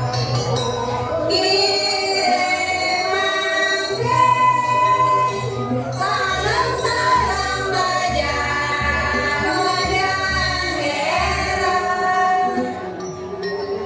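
Women's voices singing a Balinese janger song together as a group, over instrumental accompaniment with a low pulsing beat.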